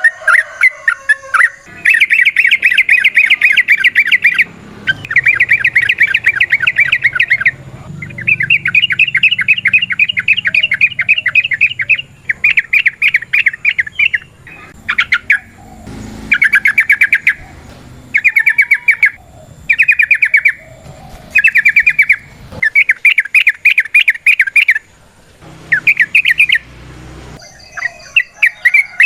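Yellow-vented bulbul (trucukan) giving its fast rattling chatter, about ten rapid notes a second, in repeated bouts of one to four seconds. The bouts grow shorter in the second half.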